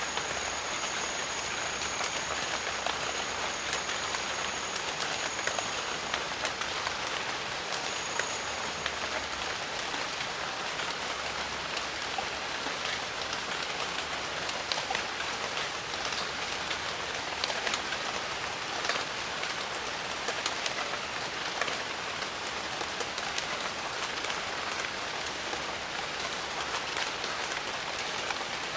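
Steady rain in a jungle: a dense even hiss full of many sharp individual drop ticks. A thin, high, steady tone sounds over the first few seconds and returns briefly a couple of seconds later.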